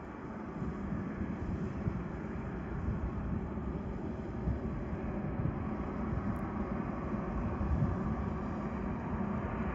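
Jet engines of a Boeing 737-800 (CFM56-7B turbofans) running at low power, a steady rumble with a hiss above it that grows a little louder near the end.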